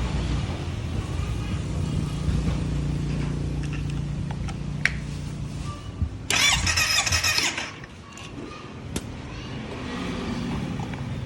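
Kawasaki Z900 inline-four engine being cranked over on its starter for a compression test, a steady churning with no firing for about six seconds. Then comes a loud hiss lasting about a second and a half, and cranking picks up again near the end.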